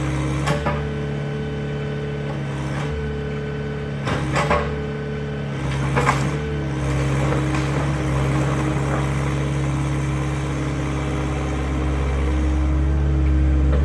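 Excavator diesel engine running steadily while it demolishes a garage, with several sharp cracks and crunches of breaking material in the first half.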